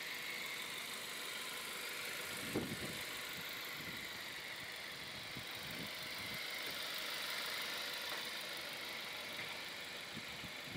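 A 2008 Mazda 3's 1.6-litre 16-valve inline-four idling quietly and steadily, with a small knock about two and a half seconds in.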